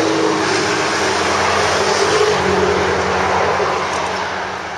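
A motor vehicle passing close by on the road, its engine and tyre noise swelling to a peak about two seconds in and then fading.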